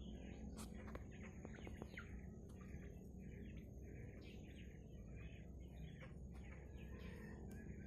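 Bird chirping: a steady run of short high chirps, a few each second, without a break.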